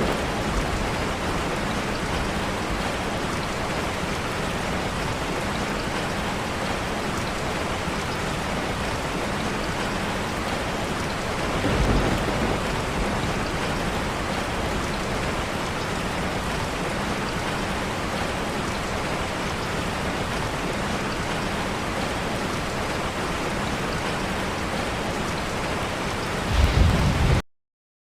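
Steady rain pattering on a roof, with two brief low rumbles, one about halfway through and one near the end. The rain cuts off abruptly shortly before the end.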